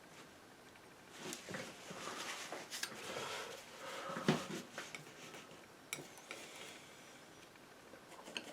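Metal painting knife scraping and tapping as it works oil paint, with rustling strokes and small clicks, and one sharper knock a little past four seconds.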